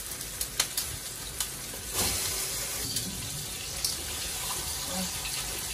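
Seasoned chicken pieces going into a hot frying pan and sizzling, with a few light clicks. The sizzle grows louder about two seconds in.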